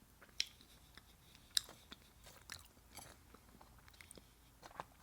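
A person chewing and crunching food close to the microphone, with scattered small mouth clicks and two sharper crunches, about half a second in and again at about a second and a half.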